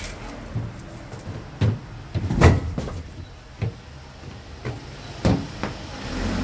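Oak firewood being unloaded and set down: a handful of irregular wooden knocks and thuds, the loudest about two and a half seconds in.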